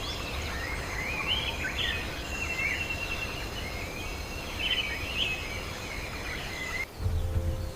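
Forest ambience: birds chirping and warbling over a steady high insect drone and a low rumble. About seven seconds in the sound changes abruptly, the insect drone cutting out and a louder low rumble taking over.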